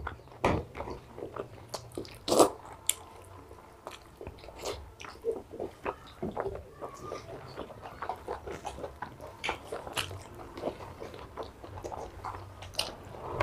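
Close-up eating sounds of mutton curry and rice eaten by hand: biting and chewing, heard as a string of irregular wet clicks and smacks. The loudest comes about two and a half seconds in.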